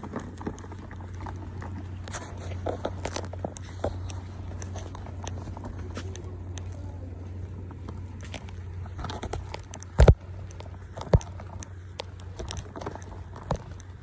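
Crunching, crackling noise of a phone camera being carried and handled on a walk, with irregular footstep knocks over a steady low rumble, and two louder thumps about ten and eleven seconds in.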